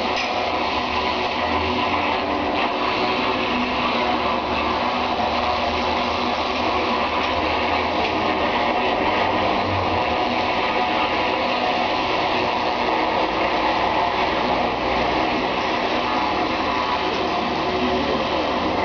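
High-pressure washer running steadily, its motor and pump humming under the hiss of the water jet.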